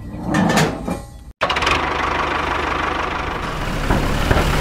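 A few short knocks and clicks, then a cut about a second and a half in. After it, a small motor runs steadily with a fast, even rattle, the running sound of a homemade mini tractor.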